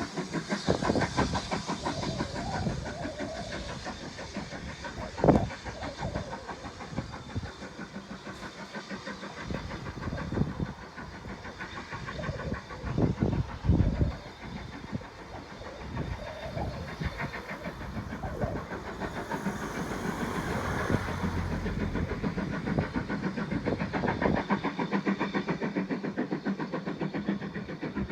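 A railway locomotive running with a steady, fast rhythmic engine beat, with a sharp knock about five seconds in and louder bangs around thirteen to fourteen seconds.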